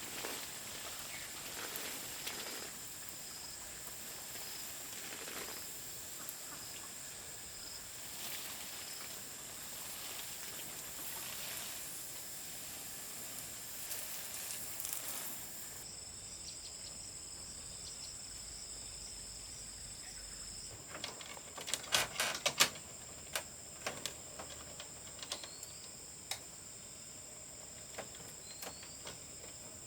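Insects, likely crickets, keep up a steady high-pitched chirring over a rural outdoor hiss. A quick run of sharp clicks or knocks, the loudest sounds, comes about two-thirds of the way through, with a few scattered clicks after.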